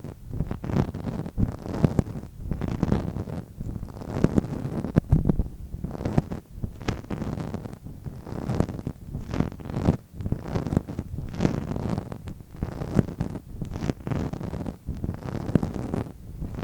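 Close-miked ASMR trigger sounds: quick, irregular taps and rubbing on an object, several a second, with a muffled low rumble.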